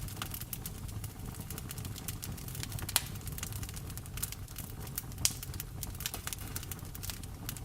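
Wood fire crackling in a fireplace, with frequent small pops and two louder pops about three and five seconds in, over a steady low rumble.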